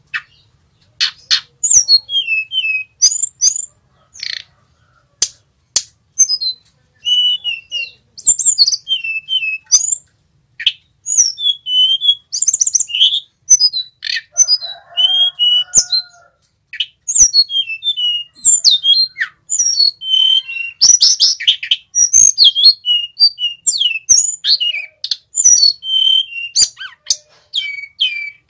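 Male sulingan gunung singing: a run of high, thin whistled notes that glide quickly up and down, delivered in bursts with short pauses between phrases, with a few sharp clicks mixed in.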